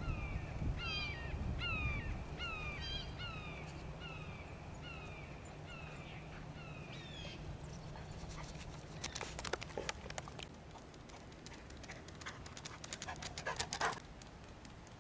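A bird calling over and over, one short falling call about every three quarters of a second, stopping about seven seconds in. After that comes a run of clicking, scuffing footsteps, loudest just before the end.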